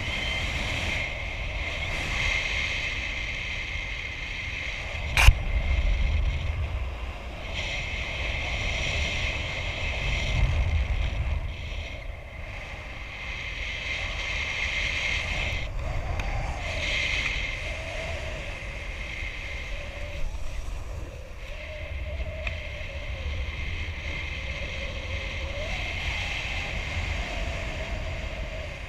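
Wind rushing over the microphone of a paraglider pilot in flight, rising and falling in gusts, with one sharp click about five seconds in and a faint wavering tone in the second half.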